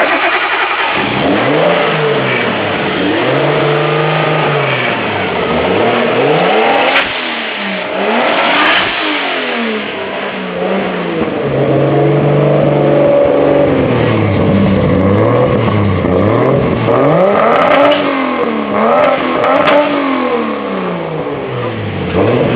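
Turbocharged Nissan RB30DET inline-six running on MegaSquirt engine management, revved over and over: repeated blips that rise and fall in pitch, with a couple of brief holds at higher revs before dropping back.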